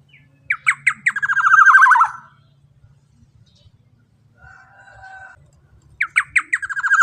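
Black-naped oriole (kepodang emas) calling twice, about five seconds apart. Each phrase is a few sharp notes falling in pitch, then a fast run of notes sliding downward. A shorter, quieter harsh buzzy call comes between the two phrases.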